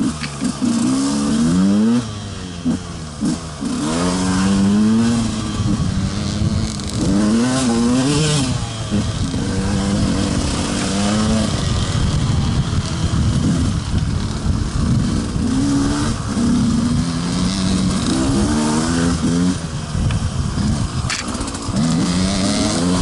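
Enduro dirt bike engine revving up and down over and over as the bike is ridden along a rough dirt trail.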